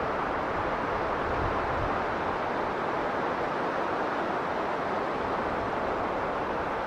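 Strong blizzard wind blowing steadily, a dense even rushing with some low rumble and no gusts standing out.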